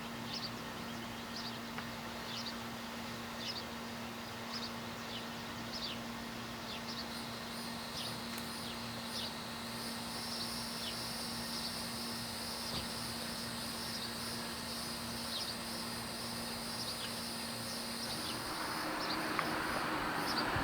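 Outdoor ambience: a bird giving short, falling, high chirps about once a second, with a steady high insect drone coming in a third of the way through and a low steady hum underneath. A rush of noise swells near the end.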